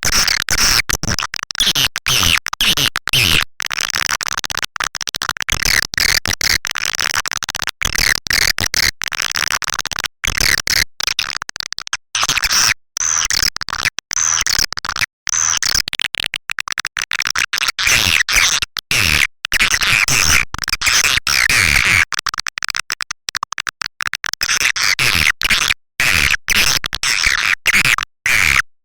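Swiftlet lure call, the kind played in swiftlet houses to attract nesting birds: dense, high-pitched twittering chirps of swiftlets, densely layered and broken by many brief drop-outs.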